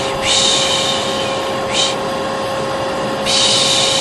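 Hair dryer running steadily with a constant hum, under a repeated long 'shhh' shushing that breaks off briefly about every second and a half. White noise for calming a colicky baby.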